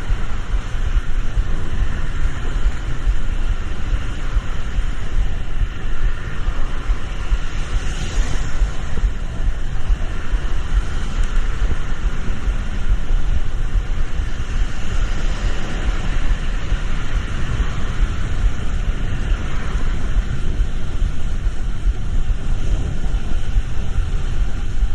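Traffic in the rain: a steady low vehicle rumble with an even hiss over it.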